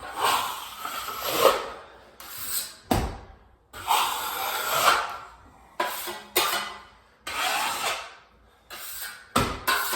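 Wide steel drywall trowel scraping thin joint compound across a wall patch. It makes about seven long, gritty strokes with short gaps between them, and a couple of sharp knocks near the middle and near the end.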